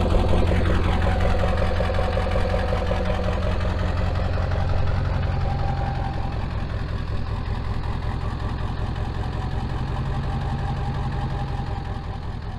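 Truck engine running steadily, with a short falling whine about half a second in and the level slowly dropping toward the end.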